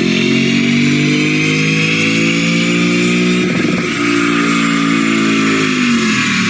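Lexus RC F's V8 engine through an APEXi N1-X aftermarket exhaust, running at a steady engine speed with a deep, even exhaust note. There is a brief break in the note about three and a half seconds in, and the pitch falls near the end as the engine eases off.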